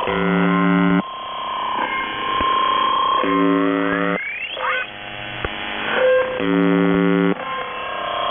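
Shortwave radio reception of UVB-76, 'The Buzzer': three harsh buzz tones, each about a second long, come roughly every three seconds. Between them a pirate's odd electronic sounds break in: warbling tones and a rising sweep near the middle.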